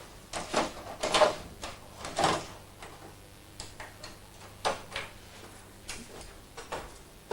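A series of irregular clicks and knocks, several sharp ones in the first two and a half seconds, the loudest a little over a second in, then lighter ones spread through the rest.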